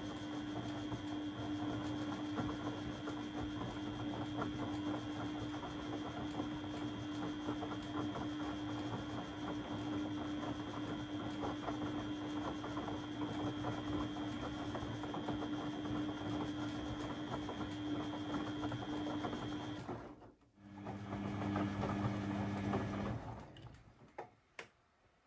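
Beko WMB 71643 PTE washing machine running, its motor whirring steadily with a constant whine. It stops about 20 seconds in, runs again briefly with a lower tone, then stops, followed by a click or two.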